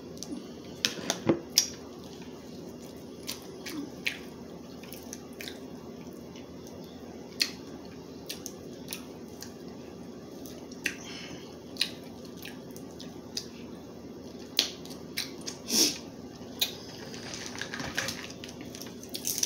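Crab legs being bitten open and eaten: scattered sharp cracks and clicks of shell with chewing, over a steady low hum.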